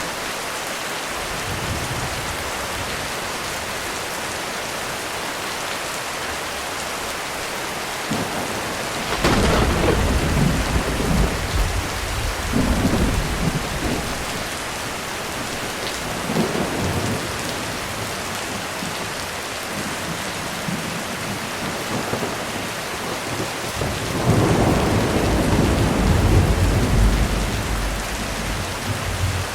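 Heavy rain falling steadily on a roof through a thunderstorm. A thunderclap about nine seconds in rolls on for several seconds, a shorter rumble follows a few seconds later, and a long, deep rumble of thunder comes near the end.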